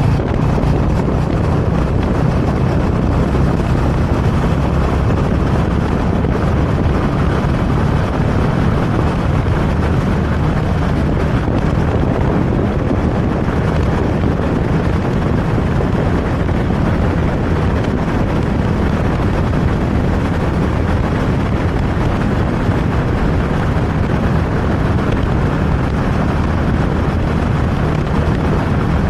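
Motorcycle engine running steadily while riding, under a constant rush of wind on the microphone.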